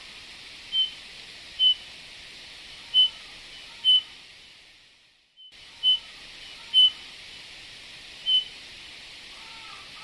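Eurasian bullfinch calls: about seven short, soft piping whistles spaced a second or so apart over a steady hiss. The track fades out and cuts back in about halfway through.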